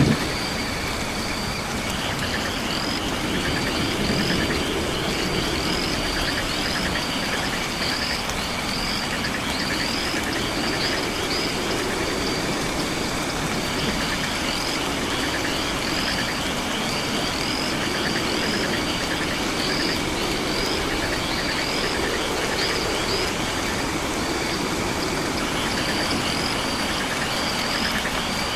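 Night rainforest chorus of frogs and insects. A short chirp repeats about once or twice a second over an on-and-off trill and a low drone that slowly swells and fades.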